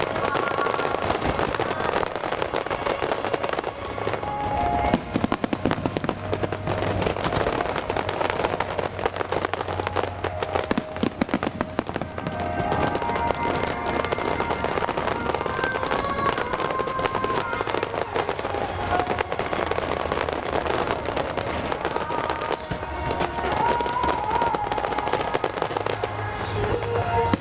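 Aerial fireworks bursting and crackling without pause, a dense stream of rapid pops and bangs. The music for the display plays underneath.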